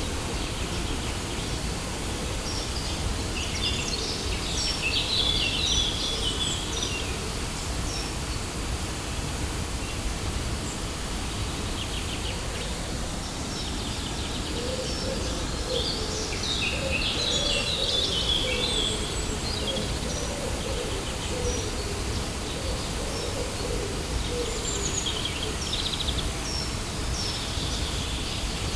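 Steady rushing noise of a waterfall, heaviest in the low range, with birds chirping in three bouts of high, quick notes: near the start, in the middle and near the end. A lower wavering sound joins in the middle.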